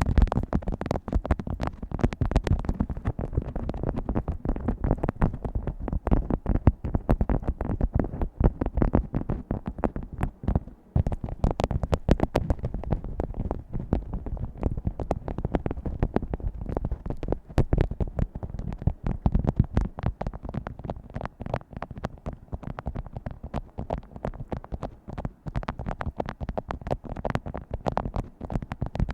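ASMR tapping on assorted objects close to the microphone: a dense, continuous run of short taps and knocks, many a second.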